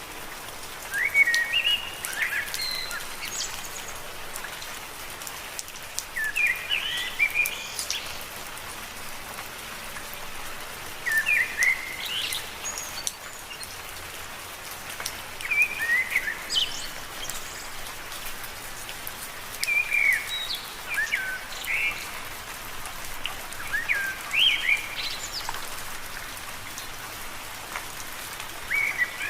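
Steady rain falling on leaves, with a bird singing short chirping phrases about every four to five seconds over the hiss.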